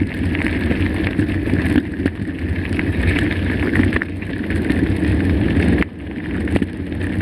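Mountain bike rolling over a rough dirt and rock trail: steady tyre noise and rattle of the bike, with wind buffeting the microphone. The noise drops off briefly near the end, then picks up again.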